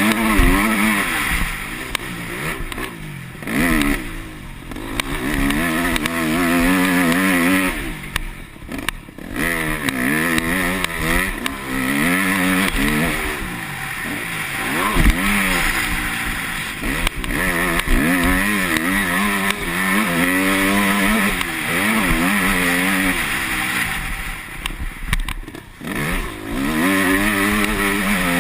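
Yamaha YZ250F four-stroke motocross engine, ridden hard: the pitch climbs and drops back again and again as the rider works the throttle and shifts, with a few brief dips where the throttle is shut off.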